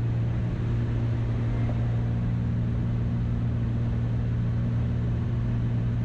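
Steady drone of a piston-engine light aircraft's engines and propellers in the cockpit during the landing approach, with the landing gear down.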